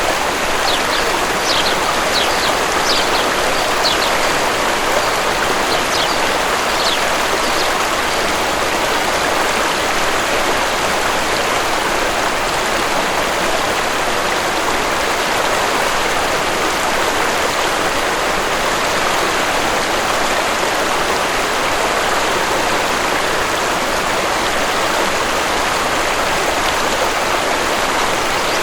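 Waterfall rushing steadily, with a scatter of short, high bird chirps during the first eight seconds or so.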